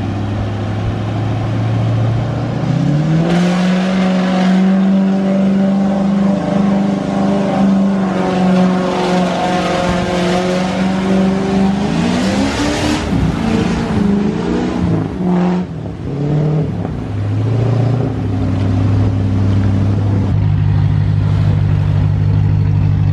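Land Rover Discovery 1's V8 engine revving up from idle and held at steady revs as it drives through a river, with water splashing around the wheels and body. Near the end the revs waver and drop, and the engine settles back to a steady idle.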